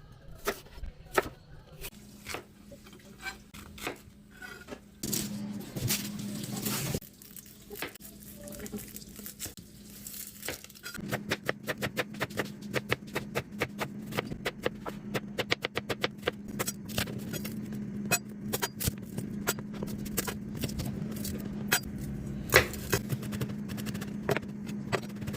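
Kitchen cooking sounds: a scattering of utensil clicks and taps that turns into a fast, dense run of ticks about halfway through, over a steady low hum.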